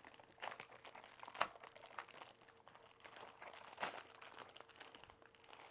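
Faint crinkling and small clicks from a plastic toy truck set and its packaging being handled, with a couple of sharper plastic knocks, about a second and a half in and near four seconds.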